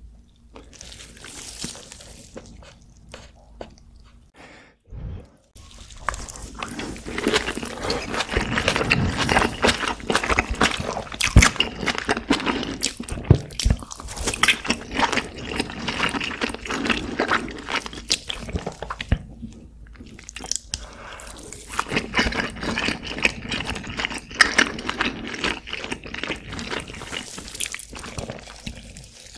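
Close-miked eating of braised kimchi and rice: wet chewing and smacking mouth sounds beginning about five seconds in, in two long runs with a short pause about two-thirds of the way through.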